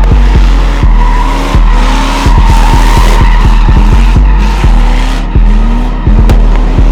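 Tires screeching on pavement from a car at a car meet, under a loud music track with a heavy bass beat that pulses about every three quarters of a second.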